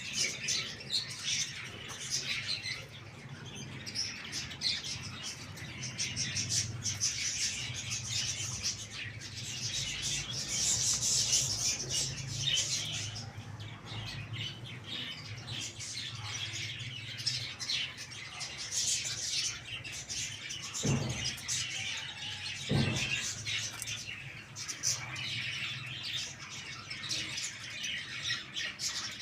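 Many small birds chirping and twittering continuously, dense and overlapping, over a steady low hum, with two short low thumps in the last third.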